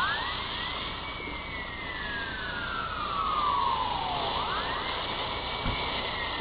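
Emergency-vehicle siren wailing: the tone rises quickly, then slides slowly down, twice. There is a short low thump near the end.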